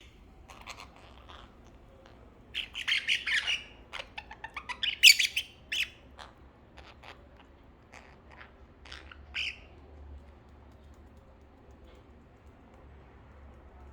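A pet bird calling in many short notes, loudest in a rapid run from about two and a half to six seconds in, then a few scattered calls that stop about halfway through.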